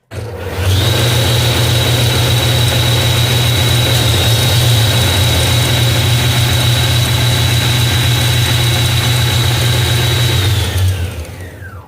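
Alternator test bench spinning a Nissan Kicks alternator fitted with new bearings, charging normally: a loud, steady motor hum with a high whine over it. Near the end it is switched off and spins down, the whine falling in pitch.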